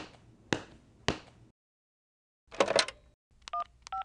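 Three sharp smacks about half a second apart, then a short clatter, then touch-tone telephone keypad beeps as a number is dialled, starting about three and a half seconds in.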